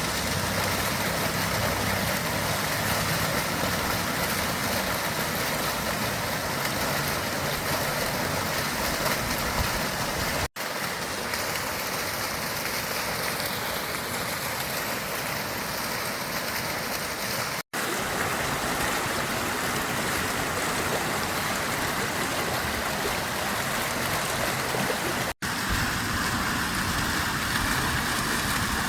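Lake fountain water splashing and falling in a steady rushing wash. It cuts out briefly three times.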